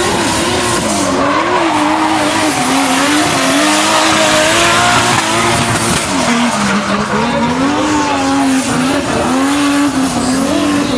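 Drift car's engine held at high revs, its pitch wavering up and down, while the tyres screech through a slide. The tyre screech is loudest in the middle of the slide.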